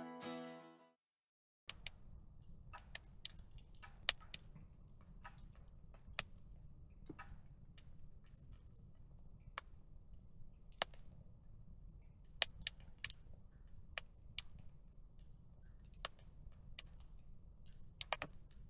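Background music ends within the first second; after a brief silence a wood fire crackles faintly, with irregular sharp pops over a low rumble.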